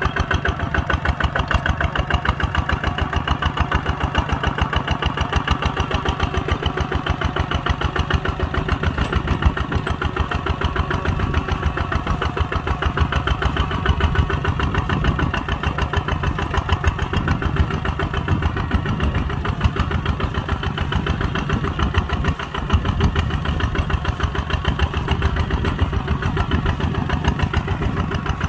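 Kubota ZT 140 tractor's single-cylinder diesel engine running steadily, with a fast, even firing beat.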